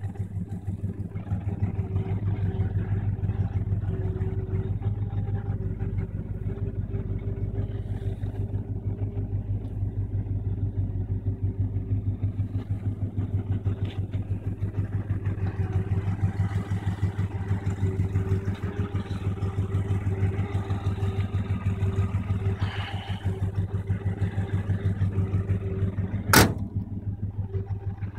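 1965 Buick Skylark's engine idling steadily with an even, pulsing beat. A single sharp knock near the end.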